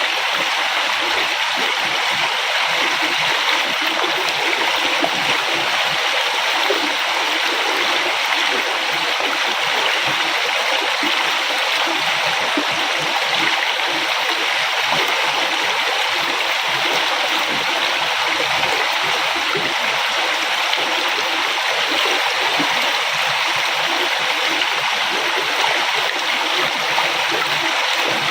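River water flowing and gurgling over rocks: a steady rush.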